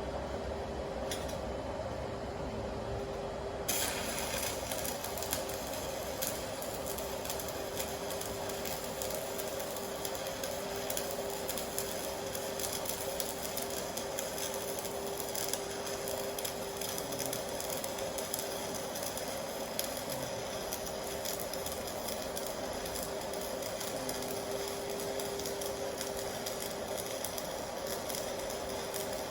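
Welding arc from a Stahlwerk AC/DC TIG 200 inverter welder: a steady hiss with a fine crackle and a constant buzz, the hiss setting in suddenly about four seconds in as the arc is struck.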